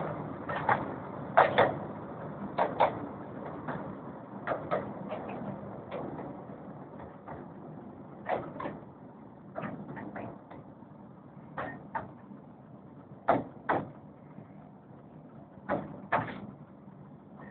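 Miniature steam railway train rumbling along, its wheels clicking over rail joints in pairs. The pairs of clicks come further apart and the rumble fades.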